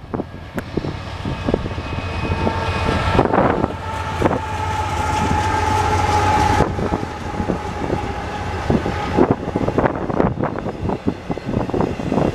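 CSX freight train passing close by: diesel locomotives rumbling past, then double-stack container cars rolling by with steady wheel rumble and repeated clicks of wheels over the rail joints. A held high tone joins in about two seconds in and cuts off suddenly a little past the halfway point.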